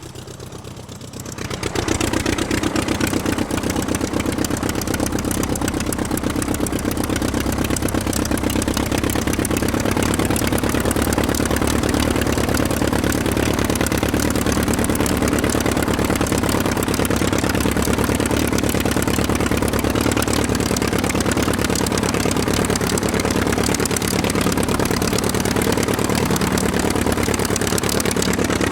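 A steady, engine-like running drone with fine rapid pulsing. It swells in after a brief dip about a second in and then holds without a break.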